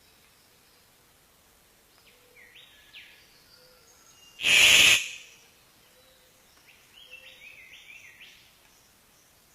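Bird-of-paradise calls: a few short notes that glide in pitch, a loud harsh burst about halfway through, then a quick run of gliding notes near the end.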